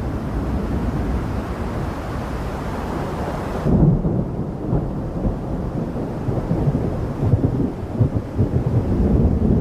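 Thunder rumbling in a thunderstorm over a hiss of rain. A little over a third of the way in, the hiss cuts off sharply and a louder low rumble follows, then uneven low rumbling goes on.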